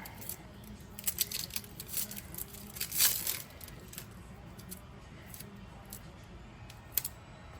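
Papery onion skin being peeled off by hand: scattered dry crackles and tearing, loudest about three seconds in.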